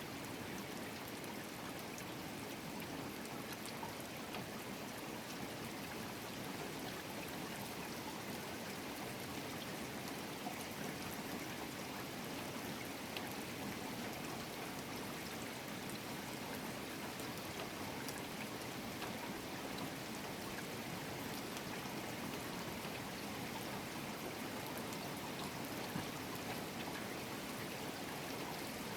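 Steady rain falling, an even hiss with scattered small drop ticks, mixed with the run of water pouring or trickling.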